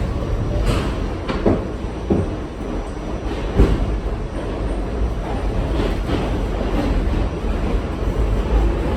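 R68 subway car running along the track, heard from on board: a steady low rumble with irregular clunks as the wheels pass over rail joints.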